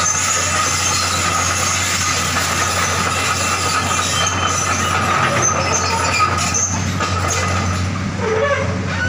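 Hydraulic excavator running steadily, its diesel engine humming under a constant high squeal and metallic clatter typical of steel tracks moving.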